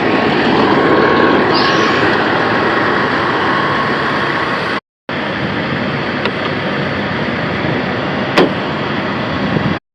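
Steady running noise of vehicle machinery at a parked semi truck, with one sharp click a little past eight seconds in. The sound drops out to silence briefly twice, near the middle and at the end.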